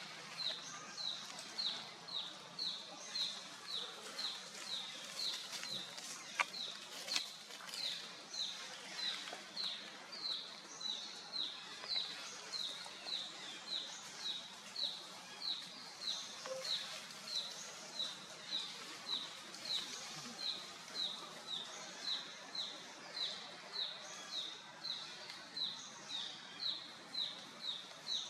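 A bird calling one short, high note over and over, about twice a second, steadily throughout, with a couple of faint clicks about six to seven seconds in.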